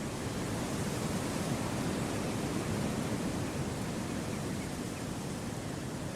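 Wind blowing through forest trees: a steady rushing noise that swells slightly in the first half and eases off.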